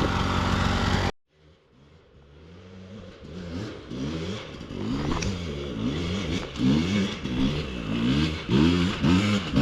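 Dirt bike engine running loud, cut off abruptly about a second in, then a dirt bike revving up and down over and over, growing steadily louder.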